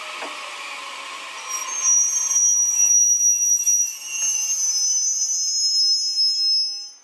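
E001 series TRAIN SUITE Shiki-shima cars rolling slowly past on electric power, with a high-pitched metallic squeal from the running gear starting about two seconds in and getting louder. The sound cuts off abruptly just before the end.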